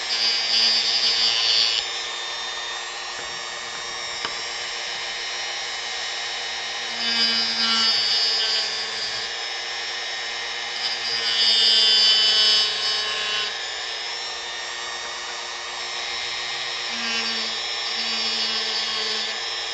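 Dremel rotary tool running steadily with a whine, its bit grinding into wood in four louder, harsher spells as a line is carved.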